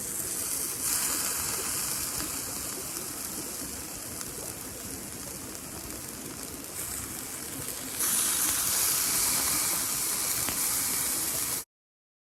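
Marinated skirt steak sizzling on a binchotan charcoal grill, a steady hiss with faint crackles. It grows louder about eight seconds in and cuts off abruptly near the end.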